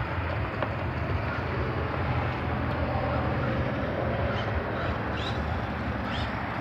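Toy RC car being driven, a steady running noise from its motor and wheels.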